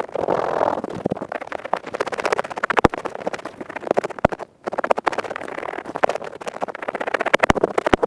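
Close-miked earpick scratching fast in quick, dense scraping strokes, broken by a brief pause about halfway and a few sharper clicks.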